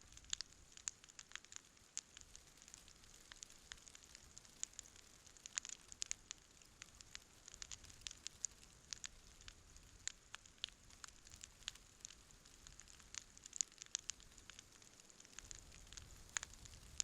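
Wood campfire crackling: frequent sharp pops and snaps, several a second and irregular, over a faint steady hiss of burning.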